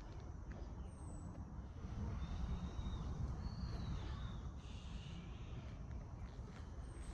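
Steady wind rumble on the microphone during a walk outdoors, with a few faint, thin whistled bird calls: two short notes about two and a half and four seconds in, and brief very high notes near the start and the end.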